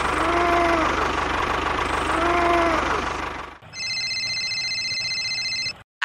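A motor runs with a fast low pulsing, and two short calls rise and fall in pitch over it, about two seconds apart. About three and a half seconds in, the motor noise stops abruptly. A steady, high electronic tone made of several pitches follows and cuts off suddenly near the end.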